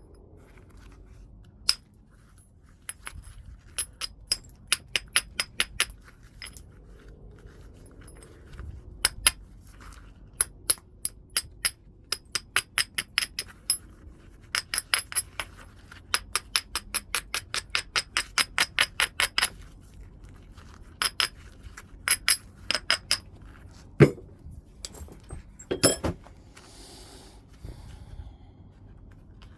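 Heat-treated Burlington chert being knapped: runs of light, glassy, ringing clicks, about four or five a second, in several bursts, then two louder, heavier blows near the end, the second followed by a short scrape.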